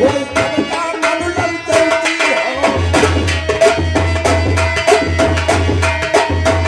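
Instrumental folk music: tabla playing a fast, steady rhythm under a held melody note. A low, pulsing bass beat joins it about two and a half seconds in.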